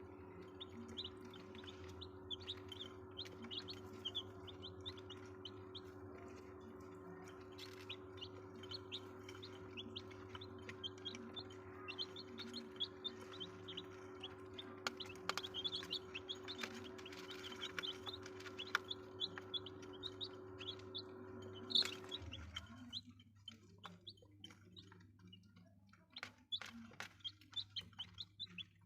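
Chicks peeping continuously, many short high cheeps a second. A steady low hum runs underneath and stops suddenly about three-quarters of the way through, right after a sharp click.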